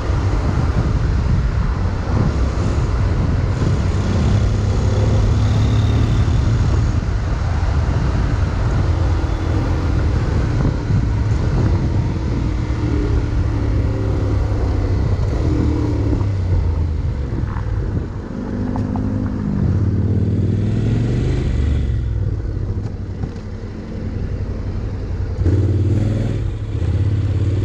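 Honda X-ADV 750 parallel-twin engine running on the move, with wind rush over the microphone. The engine pitch rises and falls several times as the bike speeds up and slows, and the sound eases off for a moment about three quarters of the way through.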